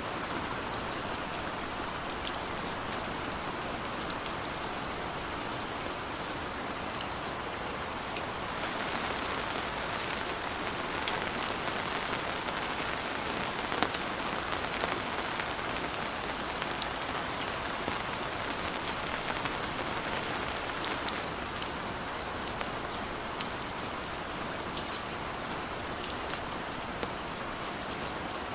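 Heavy rain falling steadily, with many individual drops striking close by as sharp ticks. The rain grows heavier about a third of the way in and eases back again about three quarters of the way through.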